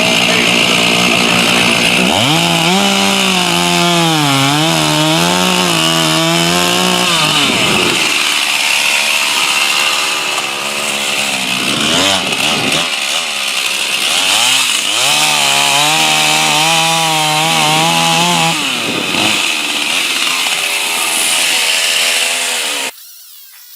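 Stihl two-stroke chainsaw running at high revs and cutting wood: its engine note sags and wavers under load in two long cuts, rising again between them. The sound cuts off abruptly near the end.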